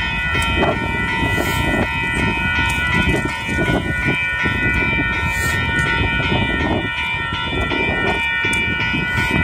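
A TriMet WES diesel commuter railcar approaching the platform: a steady low rumble with a set of high, steady ringing tones held over it throughout.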